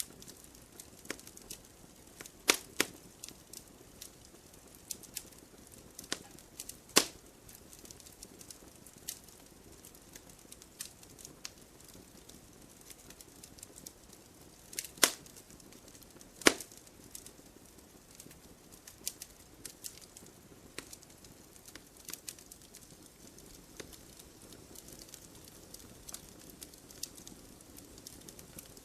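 Wood fire crackling in a fireplace: irregular small snaps over a soft hiss, with several louder pops from the burning logs, about two and a half seconds in, near seven seconds, and twice around fifteen to sixteen seconds.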